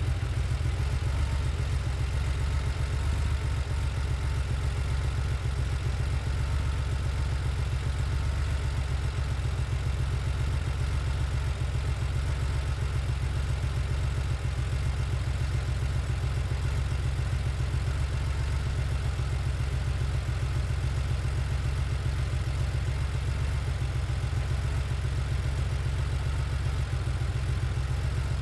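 1990 Porsche 911's air-cooled flat-six engine idling steadily, heard from the outside of the car.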